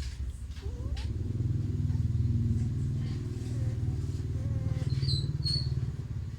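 Motor vehicle engine running steadily with a low rumble, louder from about a second in. Two short high-pitched chirps come about five seconds in.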